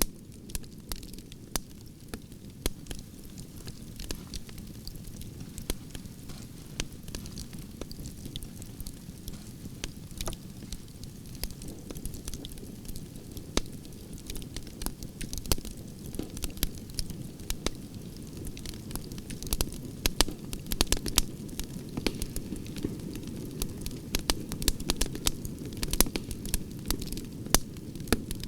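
Campfire of burning branches crackling: a steady low rush of flames under irregular sharp pops and snaps, which come thicker and louder in the second half.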